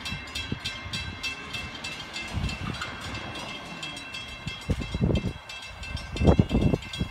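Distant approaching train: a low rumble under steady high-pitched ringing tones, with a few louder low thumps about five and six seconds in.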